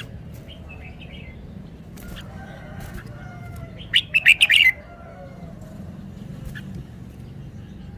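Red-whiskered bulbul singing: a few soft notes, then one loud, quick phrase of rapid chirps about halfway through.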